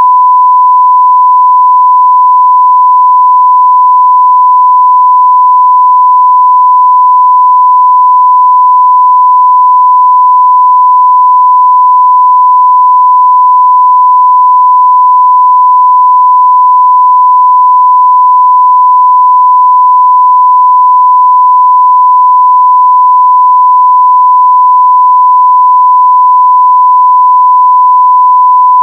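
Continuous 1 kHz sine-wave test tone at full-scale level (0 dBFS): one pure, steady pitch that does not change.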